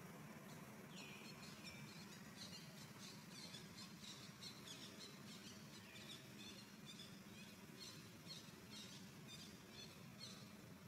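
Near silence with faint birds chirping: short high notes repeating several times a second, starting about a second in, over a low steady background hum.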